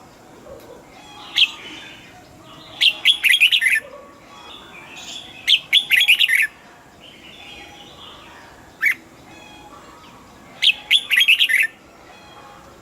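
Red-whiskered bulbul singing: repeated short phrases of quick, sharp notes every few seconds, with single notes in between, over fainter background chirping.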